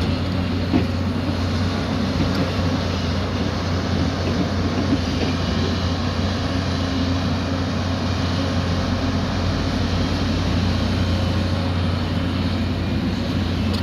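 Diesel engine of heavy earthmoving equipment running steadily with a deep hum, and a single short knock about a second in.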